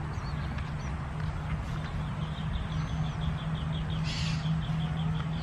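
Outdoor wetland ambience: a steady low hum, with a fast, even series of high chirps from a calling animal, about six a second, starting about halfway through, and a short hiss about four seconds in.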